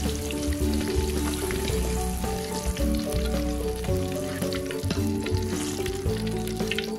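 Tomatoes and chillies frying in hot oil in a wok, a steady sizzle, with a metal spatula and slotted strainer stirring and scooping and a few clinks near the end. Background music with a steady bass plays along.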